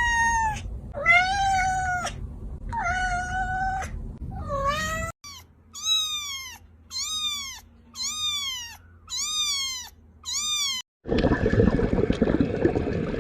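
Domestic cat meowing: four drawn-out meows, then after a cut a run of about seven short, identical falling meows at an even pace. Near the end a steady rushing noise takes over.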